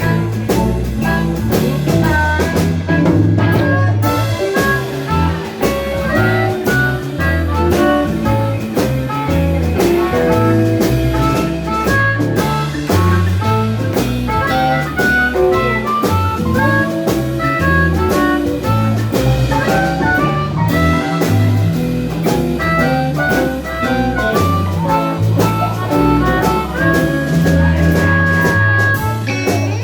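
Live blues band playing an instrumental break: a lead melody, probably guitar, over a steady bass line and drum kit, with a long held high note near the end.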